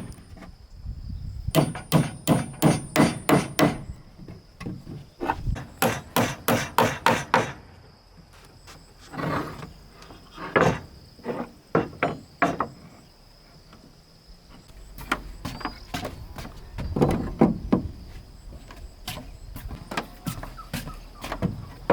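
Hammer striking wood, in quick runs of about five blows a second with pauses between, then slower, irregular single blows.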